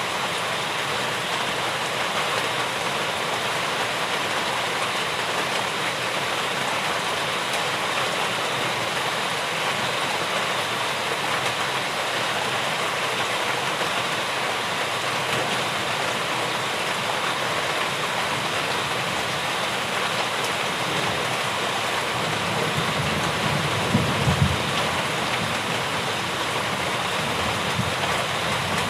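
Steady rain, an even hiss. About 22 seconds in, a low rumble swells for a few seconds and peaks near 24 seconds before fading back under the rain.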